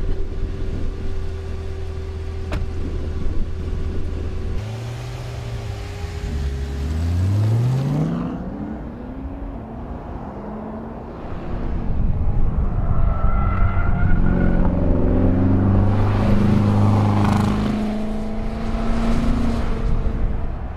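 2014 Corvette Stingray's 6.2-litre V8 idling, then revving in a steep rising sweep about five seconds in. It then runs loud and hard through the second half as the car is driven quickly around an autocross cone course.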